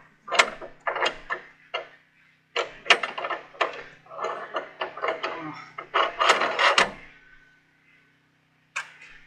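Sawmill log dogs and clamp being set against a log: a quick, irregular run of metal and wood clicks and knocks that stops about seven seconds in, with one more click near the end.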